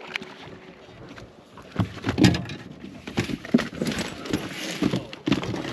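Irregular knocks and clatter in a fishing boat with a splashy hiss between them, as a big smallmouth bass is fought at the boat's side and netted.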